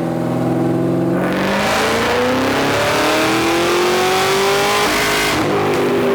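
A 2011 Cadillac CTS-V's supercharged 6.2-litre V8 making a full-throttle dyno pull: after running steadily for about a second, the engine note climbs steadily in pitch through the revs for about four seconds, then the throttle is closed abruptly and it drops back.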